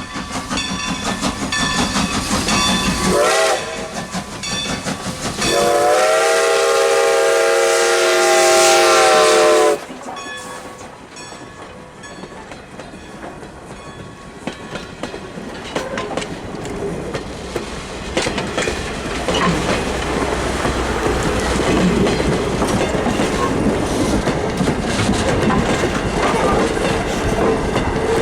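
Steam locomotive whistle on a 2-10-0 Decapod: a short toot, then a long chime blast lasting about four seconds over the engine's exhaust beats. The train then rolls by, its wheels clicking over the rail joints, getting louder over the last ten seconds.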